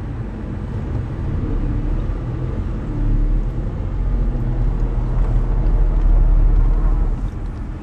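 Car driving, heard from the car: engine and low road rumble that grow louder about three seconds in and are loudest around six seconds.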